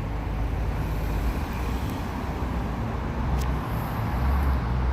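Steady low rumble of car engines and road traffic, with one sharp click about three and a half seconds in.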